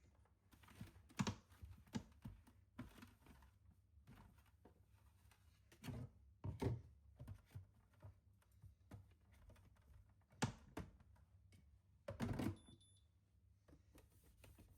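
Irregular light clicks and knocks of small objects being handled, in a small room, with a few louder knocks about six, ten and twelve seconds in.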